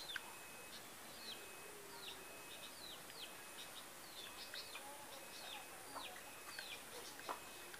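Small birds calling: a quick, continuous run of short descending chirps, two or three a second, mixed with brief flat whistled notes, all fairly faint.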